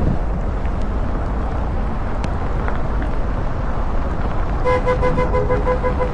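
Steady low rumble of outdoor street noise. About five seconds in, a vehicle horn sounds as a quick run of short honks for over a second.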